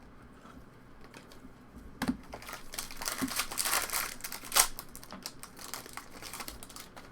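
Trading card pack wrapper crinkling and cards being handled, with a sharp click about two seconds in and the crinkling loudest a little past the middle.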